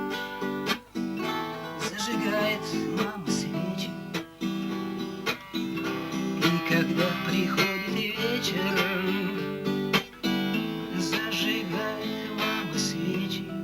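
Acoustic guitar strummed and plucked, chords ringing on between the strokes.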